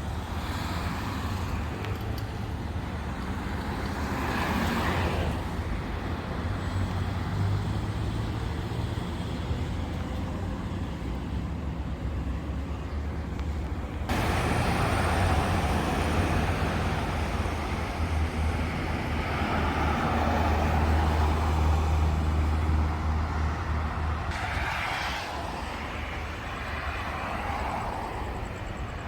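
Road traffic on a city highway: a steady rumble of cars, with individual vehicles passing by more loudly twice.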